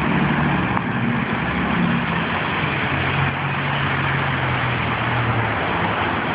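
An engine running steadily, its pitch stepping down a little over the first few seconds, under an even hiss.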